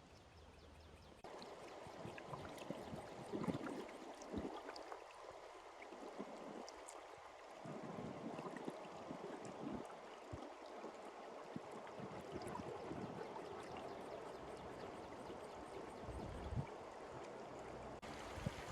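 A river stream running, a steady rush of water, starting abruptly about a second in, with a few faint knocks and clicks.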